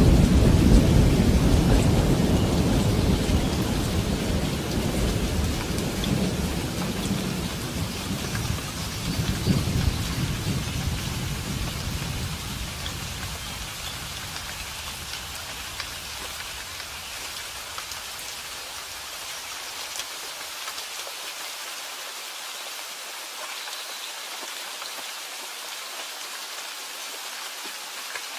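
Steady rain falling, with a long roll of thunder that is loudest at the start and dies away over about the first twenty seconds, swelling briefly about ten seconds in. After it fades, only the rain's even hiss remains.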